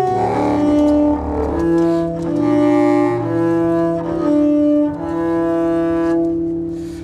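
Clarinet and bowed double bass playing long held, overlapping notes that shift in pitch about every second or so; near the end one note is held and fades away.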